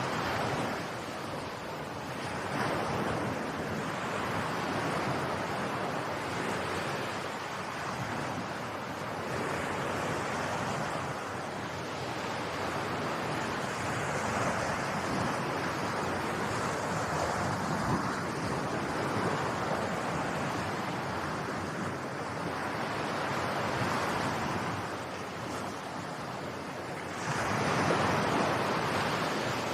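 Surf: a continuous rushing of waves, swelling and easing every few seconds, with a louder surge near the end.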